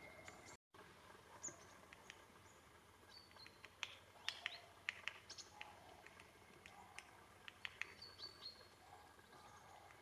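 Faint small-bird calls: scattered short, sharp high chirps and ticks, with two brief high whistled notes, over a quiet outdoor hush. The sound cuts out completely for a moment about half a second in.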